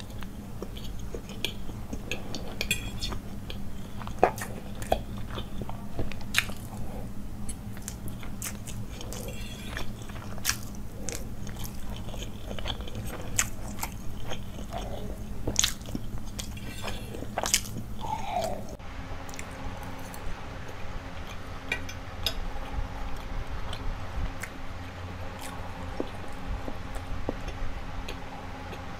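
Close-miked chewing and biting of boiled egg and Maggi noodles, with sharp clicks of a metal fork against a ceramic plate. At about 19 s the sound changes abruptly and goes on more softly, with lighter fork ticks.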